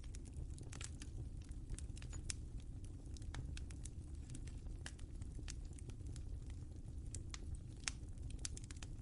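Wood fire crackling in a fireplace: many sharp irregular pops and snaps over a steady low rumble of flame.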